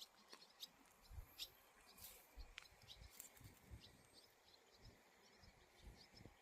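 Faint forest ambience: scattered short, high chirps and a few sharp clicks, with soft low thumps now and then.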